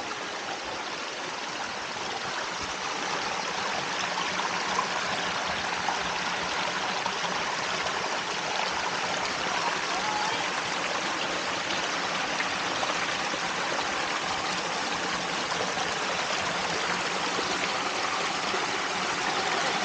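Steady rush of water from a forest stream and waterfall cascade, growing slightly louder a few seconds in.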